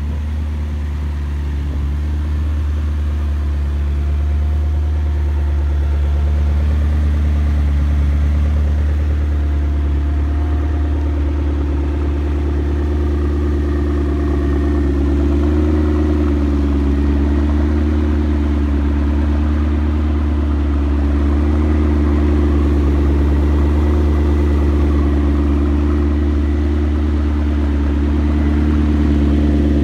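McLaren MP4-12C's twin-turbo V8 running under way, a steady low rumble with the engine note drifting gently up and down, building slightly over the first few seconds.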